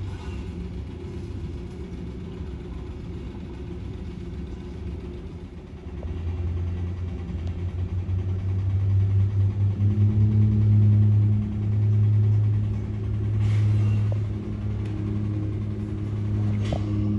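A low engine rumble with a steady hum that swells about six seconds in and pulses for a few seconds before levelling off.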